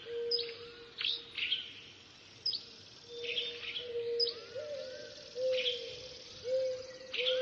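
Birds chirping: short, sharp calls that sweep downward, about one a second, over a low steady tone that wavers a few times near the end.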